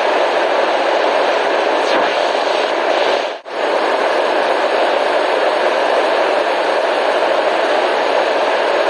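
Steady, even hiss of relaxation noise, heaviest in the middle register rather than flat, dropping out for a split second about three and a half seconds in before carrying on.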